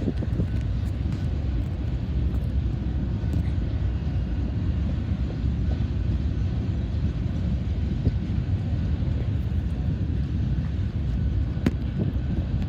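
Freight train rolling through the crossing: a steady low rumble, with gusts of wind on the microphone mixed in.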